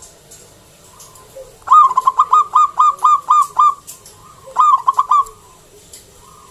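Zebra dove (perkutut) calling: a quick run of about ten staccato cooing notes, then after a short pause a shorter run of about four notes.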